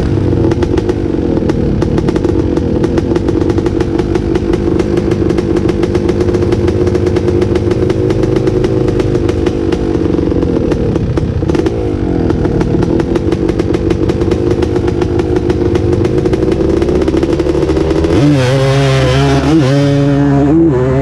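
Off-road engines, a two-stroke ATV and a dirt bike, running at a steady idle, then revved up and down in rising pulls from about eighteen seconds in, with a brief drop just before the end.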